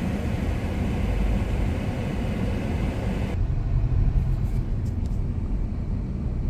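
Steady low rumble of road and engine noise from a moving car. About three and a half seconds in the sound changes abruptly, the upper hiss dropping away while the low rumble goes on.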